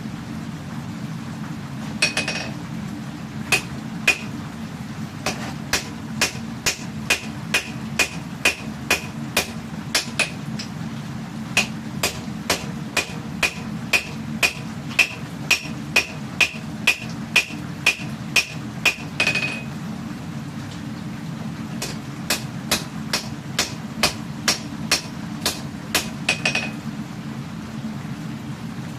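Hammer blows on hot katana steel at the anvil, about two a second, each with a short metallic ring. There is a pause of a couple of seconds in the middle before the strikes resume. A steady low rush runs underneath.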